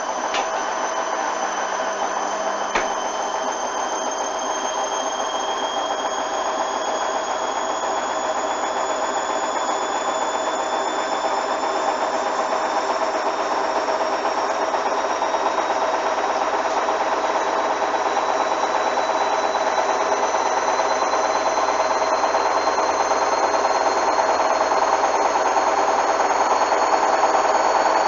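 Hoover front-loading washing machine spinning up: a steady drum-and-motor noise with a whine that rises slowly in pitch and grows louder as the drum gathers speed. One sharp click about three seconds in.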